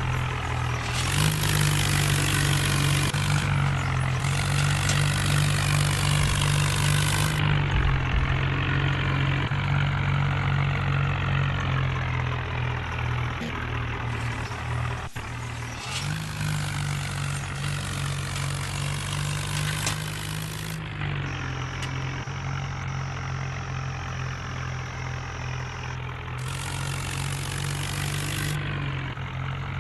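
Tractor diesel engine running steadily, its pitch stepping up and down a few times as the throttle changes, with one sharp click about halfway through.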